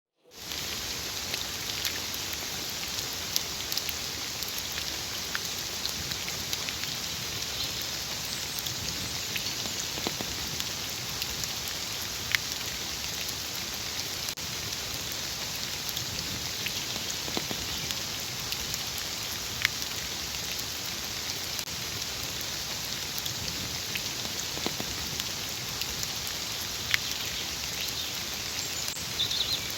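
Light rain falling in a forest: a steady patter with a few louder single drops striking now and then.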